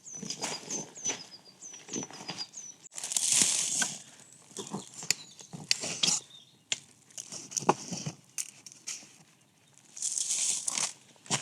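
Bursts of rustling and crinkling, the loudest about three seconds in and again near the end, with scattered clicks between. A small bird repeats short hooked chirps through the first two seconds or so.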